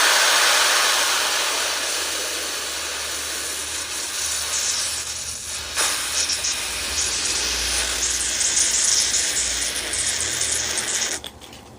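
A loud, steady hiss of something spraying out under pressure, lasting about eleven seconds and cutting off abruptly near the end.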